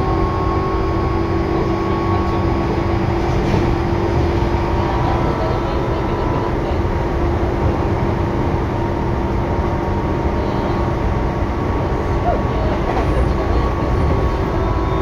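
Tobu 9000 series electric commuter train running at a steady speed, heard from inside the car: a continuous rumble of wheels on rail with steady tones from the running gear.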